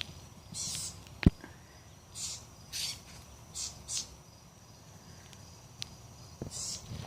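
Small birds giving harsh scolding calls, a short rasping call every second or so: alarm calls mobbing a cat. One sharp knock about a second in.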